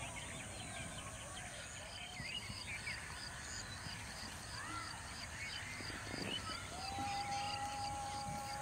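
Birds chirping and calling in open countryside, with a high note repeated evenly about three times a second. About seven seconds in, a steady held tone comes in.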